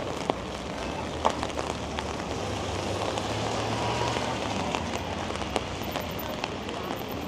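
Steady rain falling, with a few sharp ticks and a low hum that swells and fades around the middle.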